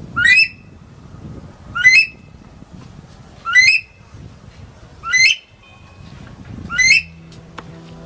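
A bird calling five times, about a second and a half apart, each call a short sharp note that rises steeply in pitch.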